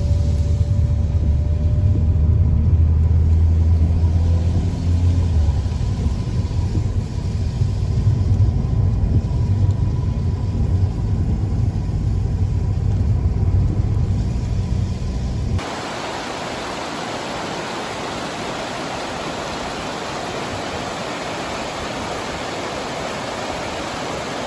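Steady low rumble of a car driving on the road. About fifteen seconds in, it cuts abruptly to the even, steady rush of a waterfall.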